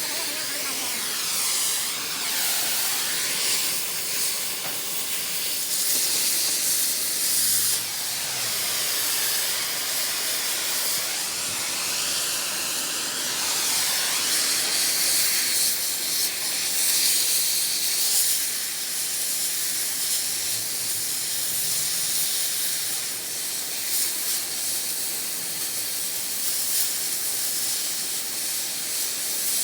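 A loud, steady hiss, strongest in the high range, with a faint wavering tone underneath.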